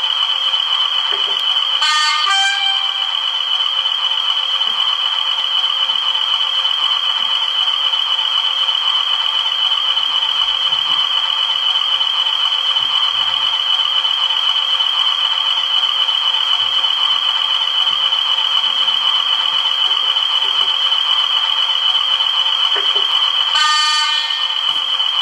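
Model railway DCC sound decoder playing recorded Class 20 diesel locomotive sounds through the model's small speaker: a steady engine sound with a constant high whistle. Short horn sounds break in about two seconds in and again near the end.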